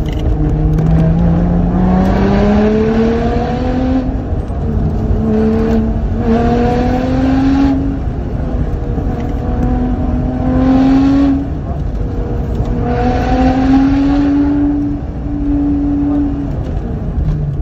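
Lotus Exige 410's supercharged V6, heard from inside the cabin, accelerating hard: the engine note climbs in pitch, drops back at each gear change or lift for a corner, and climbs again about half a dozen times, over a steady rumble of road and tyre noise.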